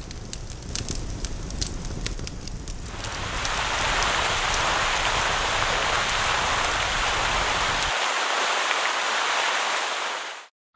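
Cartoon sound effects: a fire crackling over a low rumble, then from about three seconds in a loud, steady hiss of water spraying from a fire hose. The hiss thins near the end and cuts off suddenly.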